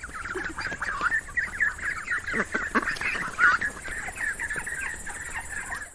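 Many young poultry peeping together in a dense, continuous chorus of short high calls, with a couple of lower calls about two and a half seconds in. The sound cuts off abruptly at the end.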